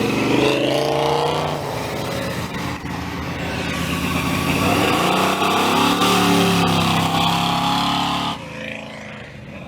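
A car engine revving hard as the car pulls away, the pitch climbing and falling through the gears. It drops off abruptly near the end.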